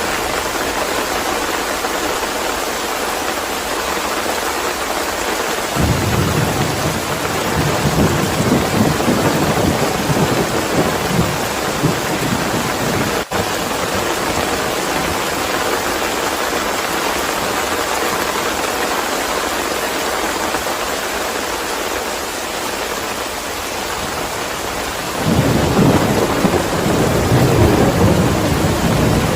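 Steady heavy rain, with thunder rumbling low and long twice: once from about six seconds in, and again near the end.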